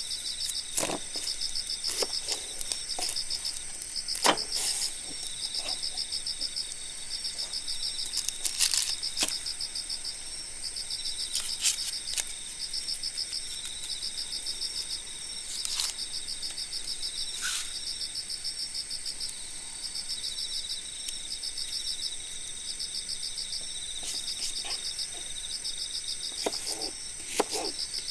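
Cricket chirping: regular pulsed trills repeating in even groups, over a steady high-pitched insect hum. Scattered sharp snaps come in now and then.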